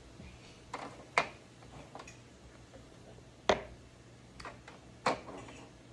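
Chicken eggs being set down one by one in a row, with a handful of short sharp clicks and taps as the shells touch the tray and each other; three louder clicks stand out about two seconds apart.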